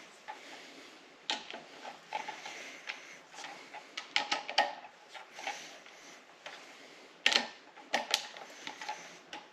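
Socket wrench clicking on the head bolts of a Subaru EJ25 engine as they are backed off another half turn: scattered sharp metal clicks, some in quick clusters.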